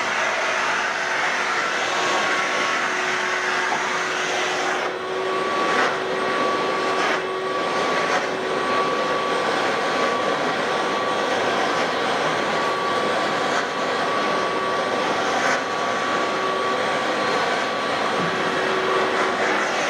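Electric carpet-cleaning machine running steadily: a continuous rushing hiss with a constant whine, dipping briefly a few times.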